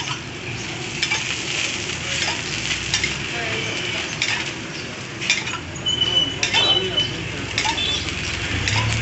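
Two dosas sizzling steadily on a hot flat iron griddle as oil is drizzled over them, with scattered sharp clinks of a steel cup and metal spatula.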